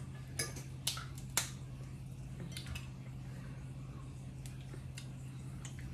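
A few sharp clicks and snaps of crab shells being cracked and picked apart at the table, the loudest in the first second and a half, with fainter ones later, over a steady low hum.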